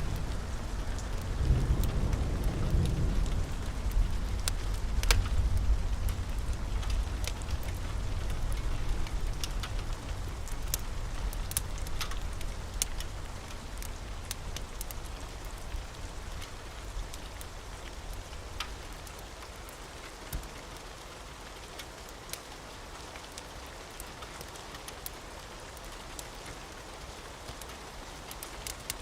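Steady rain falling on a roof, with a deep rumble of thunder in the first part that fades out over about ten seconds. Scattered sharp clicks and crackles run through it.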